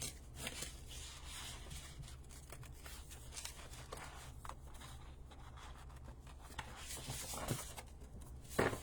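Sheets of patterned cardstock paper rustling and sliding against each other as they are flipped over and handled, with a few short soft rasps. A faint steady low hum runs underneath.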